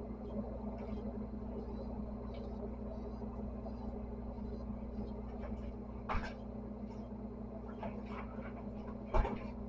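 Steady low hum with two short knocks, the second louder, about six and nine seconds in.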